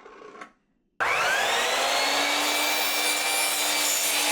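Electric power saw starting about a second in, its motor spinning up with a rising whine and then running steadily as it cuts a cedar fence picket.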